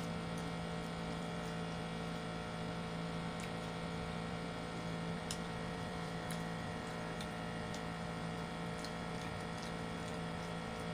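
Steady electrical hum made of several fixed tones, with a few faint, scattered clicks.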